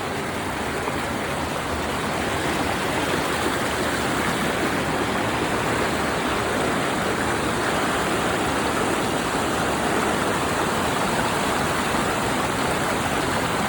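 Steady rushing of a small waterfall pouring into a creek, growing a little louder over the first few seconds.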